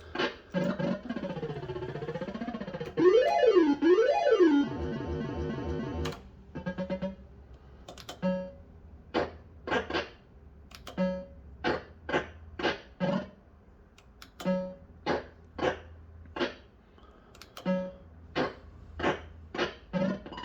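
Bell-Fruit Wild Cats System 85 fruit machine's electronic sound effects during play: warbling, swooping tones rising and falling for the first few seconds, then a long run of short beeps and clicks, about one or two a second.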